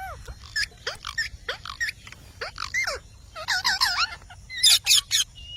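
Parrot calling in a rapid string of short squawks, chirps and whistles that bend sharply up and down in pitch, coming in little clusters with short gaps between them.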